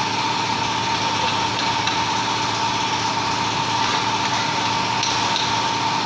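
An engine running steadily at idle, with a steady high whine over it.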